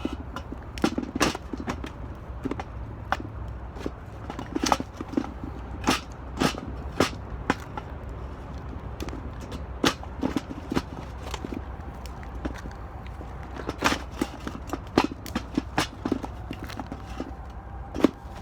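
Wood fire burning in an 18-litre square metal can, crackling with sharp, irregular pops over a low steady rumble.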